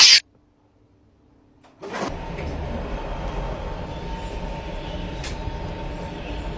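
A short sharp noise right at the start, near silence, then about two seconds in a steady low rumble with a faint steady hum over it.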